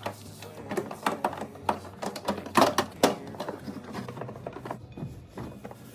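Irregular clicks and knocks of items being handled and set down while a fridge is cleaned, with the loudest clatter about two and a half to three seconds in.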